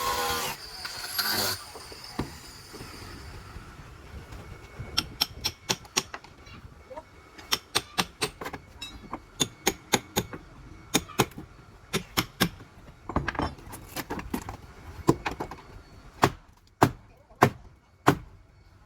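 A long, irregular series of sharp knocks, roughly one to three a second and some in quick pairs, starting about five seconds in over a low background noise.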